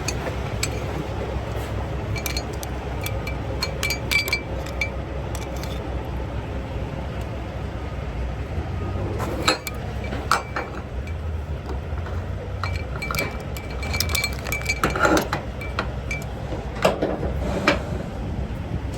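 Scattered light metallic clinks and rattles over a steady low rumble of a running vehicle.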